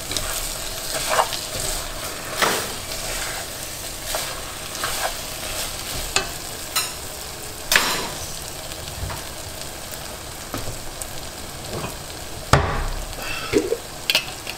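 Lemongrass, garlic and scallions frying in butter in a pot, a steady sizzle, with a spatula stirring and scraping through them. Sharp knocks against the pot come now and then, the loudest near the end.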